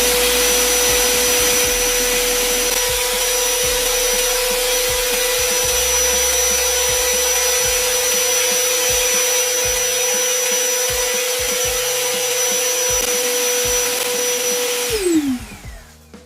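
PowerHouse 1,200-watt wet/dry shop vacuum running in blower mode, blowing away sawdust: a steady high motor whine over a loud rush of air. About fifteen seconds in it is switched off and the motor winds down with a falling whine.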